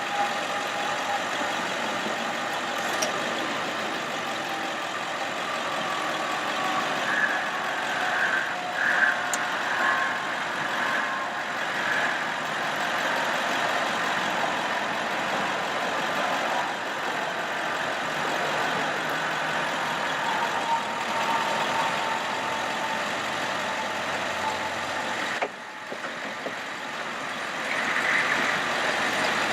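Bucket truck engine running steadily, driving the PTO hydraulic pump while the Altec AT37-G boom is operated, with a faint steady whine over the engine.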